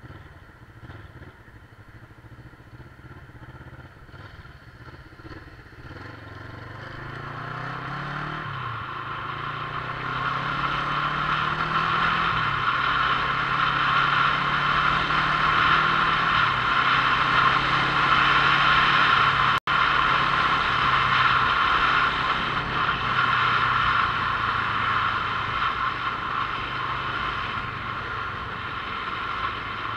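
Motorcycle engine accelerating and shifting up twice, its pitch dropping at each gear change, then running steadily at speed while wind noise builds and stays loud. The audio cuts out for an instant near the middle.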